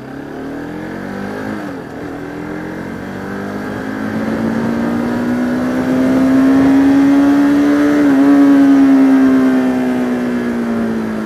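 Single-cylinder engine of a Bajaj Pulsar RS200 motorcycle pulling in gear, heard from the rider's helmet camera. Its pitch and loudness rise slowly to a peak about eight seconds in, dip briefly, then ease off.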